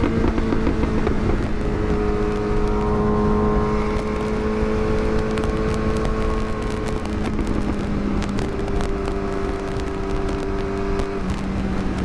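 Yamaha R6 inline-four sportbike engine running at steady mid revs while riding, its pitch dropping slightly a couple of times, with rough wind noise underneath.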